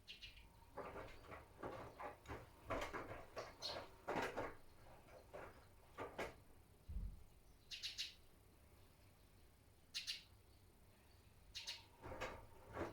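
Miele W1 front-loading washing machine partway into a cotton wash: faint, irregular swishes and soft knocks come in short clusters as the drum turns the wet laundry, with a single low thud about seven seconds in.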